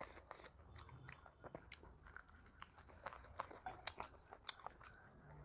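A person chewing and biting food close to the microphone: irregular crunchy clicks and wet mouth smacks.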